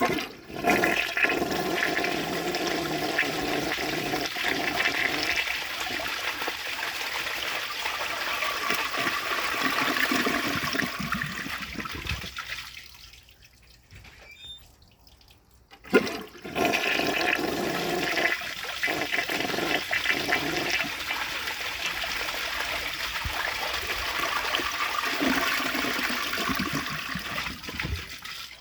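1969 American Standard Cadet elongated toilet flushing twice. Each flush starts with a sharp click of the handle and runs for about twelve seconds of rushing, gurgling water before dying away. The second flush begins about halfway through, after a few seconds of quiet.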